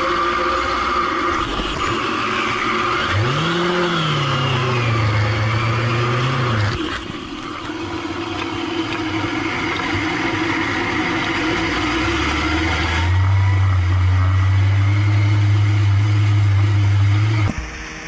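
Vehicle engines running and revving, with a rise and fall in engine pitch early on and a steady drone later. The sound changes abruptly twice, as one clip cuts to the next.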